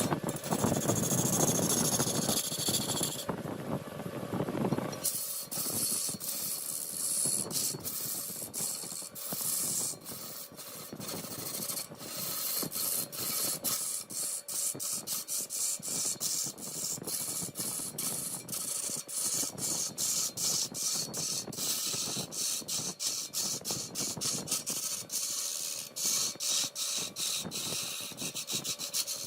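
A machine runs loudly and stops about five seconds in. Then come rapid, repeated rasping strokes on wood, several a second and hissy.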